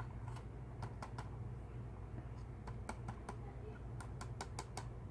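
Light, irregular clicks and taps as a small RC helicopter's thin plastic and metal body is handled, over a steady low hum.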